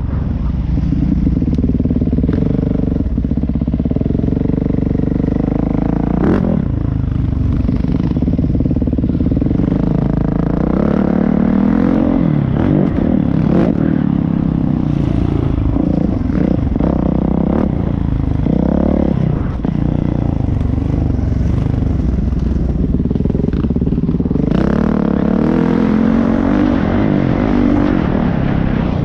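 Motocross dirt bike engine running loud and close, its pitch rising and falling with the throttle, with clattering throughout.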